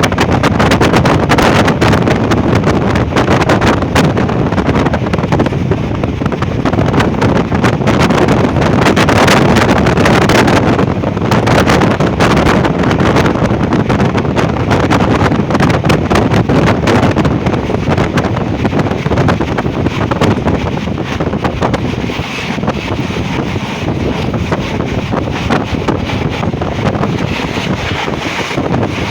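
A moving train running along the track: steady loud rushing noise with rapid clatter, and wind buffeting the microphone.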